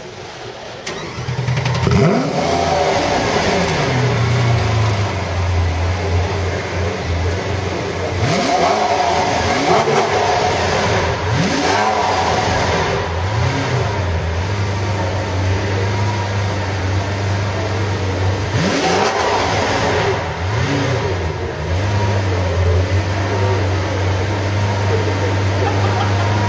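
Lamborghini Aventador LP700-4's V12 engine coming to life about a second in, then idling, with about six sharp throttle revs that rise and fall back to idle.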